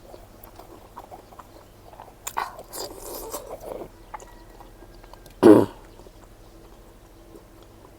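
A person chewing and biting food close to the microphone, with small scattered mouth clicks. About five and a half seconds in, there is one short, louder sound.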